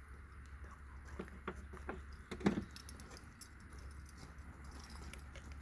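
Scattered small clicks and knocks of hands and a knife working a chicken carcass as the innards and vent are pulled free, with one louder knock about two and a half seconds in, over a steady low hum.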